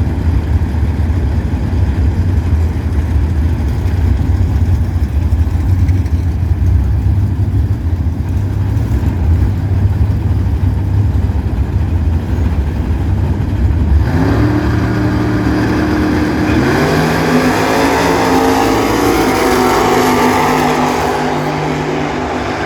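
Drag-racing cars' engines rumbling low and steady. About 14 seconds in they rev up for the launch and the pitch climbs, then steps up again a couple of seconds later as the cars accelerate down the strip.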